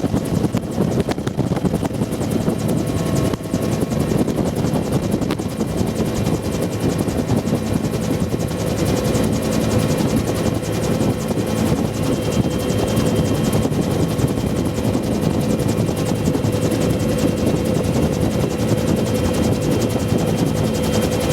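Bell UH-1 Huey helicopter's main rotor and turbine engine running steadily: a fast, continuous rotor beat with a steady turbine whine over it, loud and unbroken, heard from inside the open cabin.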